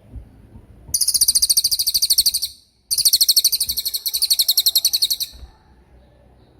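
A cililin bird singing its 'tembakan' song: two long bursts of very fast, evenly repeated high-pitched notes, about thirteen a second, separated by a short break.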